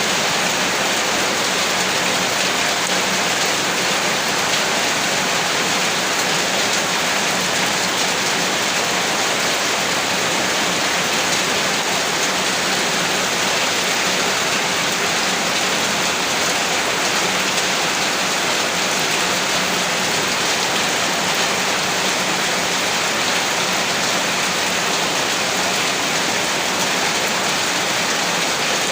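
Heavy rain falling steadily, a dense even hiss of countless drops on surfaces.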